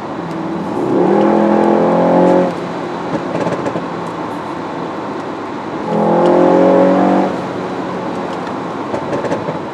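Inside the cabin of a Mercedes S63 AMG (W222) at Autobahn speed: steady road and tyre noise, twice broken by about a second and a half of the twin-turbo V8 droning louder at a steady pitch under throttle. The car runs a Stage 1 tune with its exhaust flaps held open in Sport.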